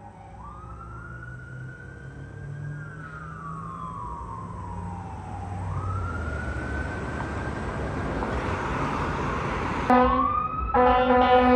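Fire truck's siren wailing, twice rising quickly and then slowly falling, with the truck's engine running underneath and the whole growing louder as it approaches. Near the end the truck's air horn sounds two loud blasts.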